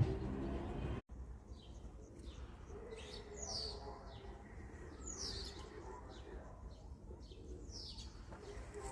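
Birds chirping outdoors: a string of short calls that slide downward in pitch, coming about once a second after a sharp cut in the sound about a second in.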